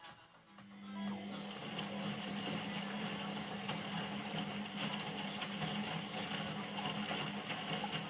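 Indesit IWUC 4105 washing machine running: a steady motor hum with a whirring hiss that starts about half a second in and builds up within a second.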